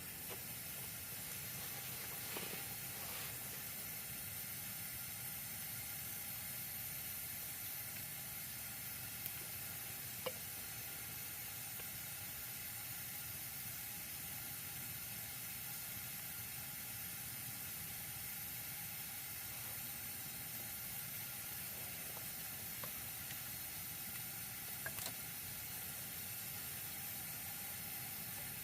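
Wood campfire burning with a steady sizzling hiss and a few faint pops.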